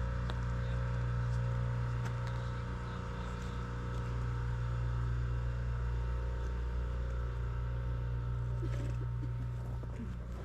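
Steady low mechanical hum inside a moving aerial tram cabin, with a few fixed higher tones over it and occasional faint ticks.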